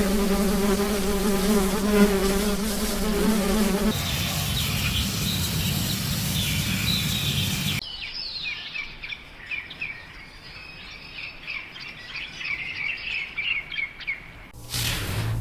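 A steady insect-like buzz for about four seconds, then rapid high chirping: small birds or insects calling over a light hiss, thinning out after a cut about halfway through.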